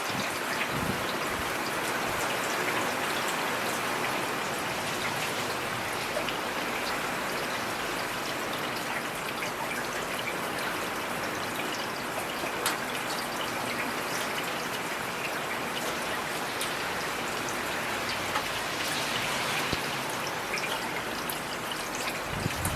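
Heavy rain falling steadily: a dense, even hiss with many individual drops ticking sharply through it.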